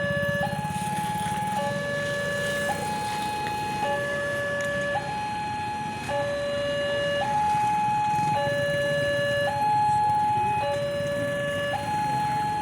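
Two-tone electronic alarm alternating evenly between a lower and a higher pitch, each tone held about a second, repeating without change over a low background rumble.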